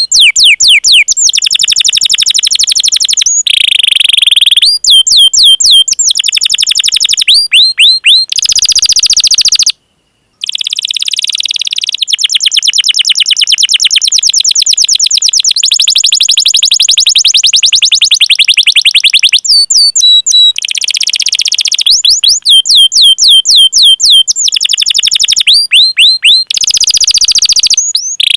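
Domestic canary singing: long, fast rolling trills alternating with repeated high, downward-sweeping 'cuit cuit' chirps. The song breaks off for a moment about ten seconds in.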